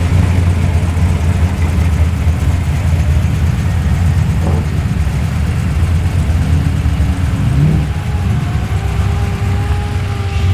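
Loud, steady low engine rumble, with a higher droning tone coming in and rising slightly from about six seconds in.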